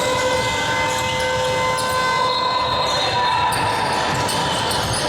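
Basketballs bouncing on a gym floor amid general gym noise, with a steady buzzer-like tone that starts at the beginning and fades out about three and a half seconds in.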